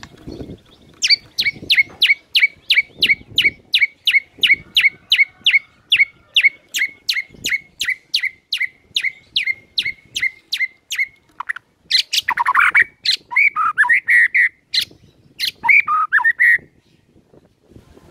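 White-rumped shama (murai batu) singing. It gives a long run of quick, identical down-slurred notes, about four a second, then a few varied warbling phrases near the end.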